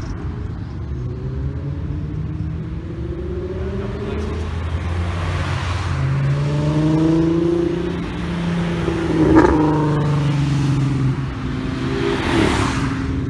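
Cars driving out of a car meet, their engines revving and accelerating past one after another, each with a rising note. A short sharp pop comes about nine seconds in.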